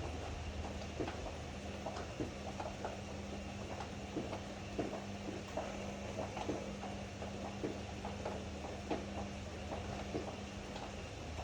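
Ariston AML125 washer-dryer running with its drum turning: a steady motor hum under irregular light knocks and clicks as the load tumbles. The hum's higher tone stops shortly before the end.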